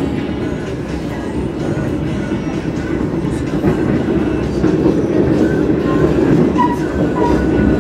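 Argo Lawu passenger train running, heard from inside a carriage: a steady low rumble of wheels on the track that grows a little louder in the second half.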